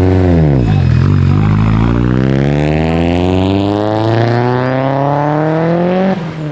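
A car engine revs up and back down once, then accelerates hard, its pitch climbing steadily for about five seconds before cutting off suddenly near the end.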